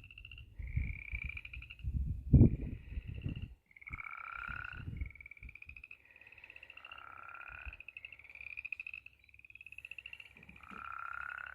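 Chorus of frogs calling in rain-flooded ground: overlapping, finely pulsed calls, each about a second long and rising slightly in pitch, repeating every second or so. Low rumbling noise on the microphone through the first few seconds, loudest about two and a half seconds in.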